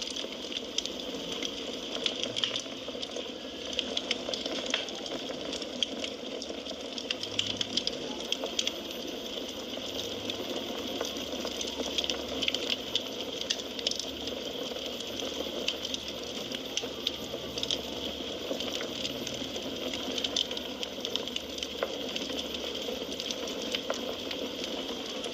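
Firewood burning, with a steady hiss and many small, irregular crackles and pops.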